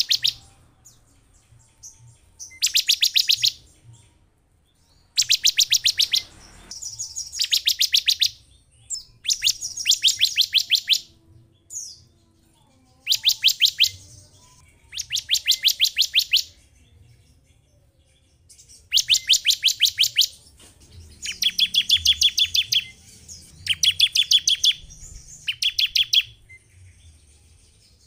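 Bar-winged prinia (ciblek) calling: about ten bursts of rapid, sharp, high-pitched repeated chips, each burst lasting about a second, with a second or two of pause between them.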